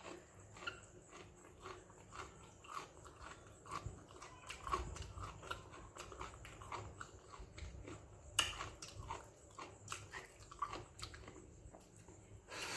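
Close-miked chewing of fermented rice (pazhaya sadam) and okra stir-fry: irregular wet smacks and small clicks of the mouth, with one sharper click near the middle.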